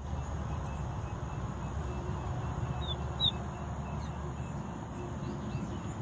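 Steady low outdoor rumble, with two short, high bird chirps close together about three seconds in.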